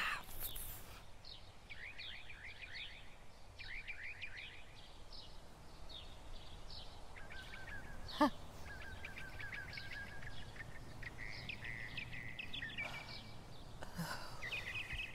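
Small birds chirping and trilling in repeated short phrases over faint outdoor background noise, with one brief falling sound about eight seconds in.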